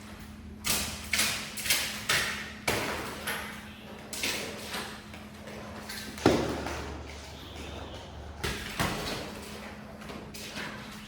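Irregular swishing strokes of a hand tool working a wet shaggy rug, several in quick succession early on and sparser later, with one heavier thump about six seconds in.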